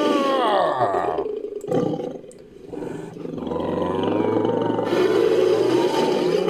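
Invented ape creature's roar, a sound effect layered from animal roars: a call that falls in pitch, a short lull about two and a half seconds in, then a second long call.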